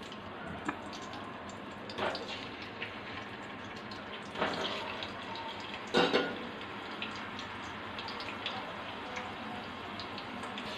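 Potato chunks sizzling as they fry in hot oil in a pot, with brief louder hisses about two, four and a half and six seconds in as more pieces are dropped in.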